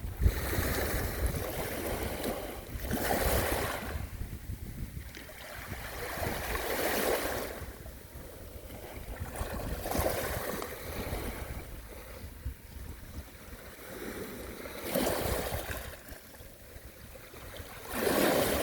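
Sea waves washing onto the shore, the hiss of each wave swelling and ebbing about every three to four seconds.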